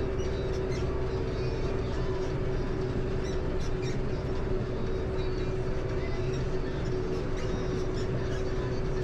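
A vehicle engine running steadily, with a constant hum and scattered light clicks and rattles.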